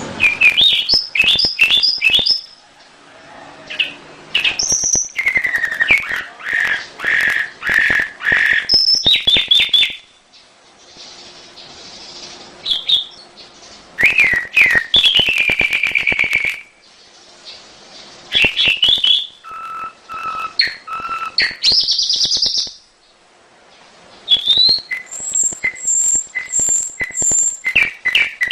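Canary singing: phrases of rapid clicking trills, rolling notes and high whistles, a few seconds each, broken by short pauses.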